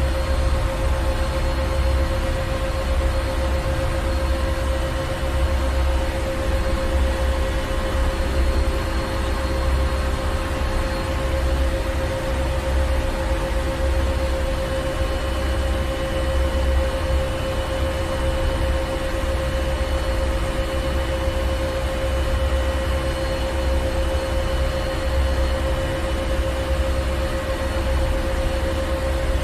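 Ship's engine room: heavy machinery running steadily, a deep low rumble with a steady hum and a hiss of machinery noise over it.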